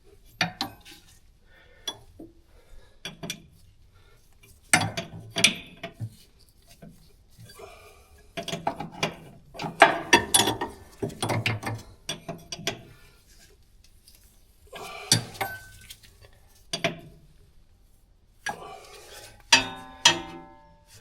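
Wrenches and metal hydraulic hose fittings clinking and clanking in scattered bursts as a fitting is tightened down, with a short ringing metallic note near the end.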